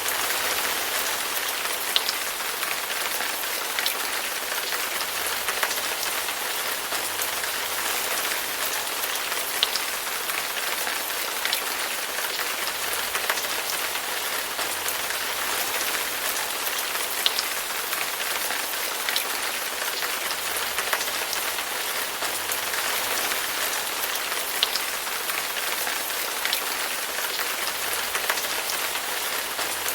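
Steady rain falling as an even hiss, with a sharper drop tick every few seconds.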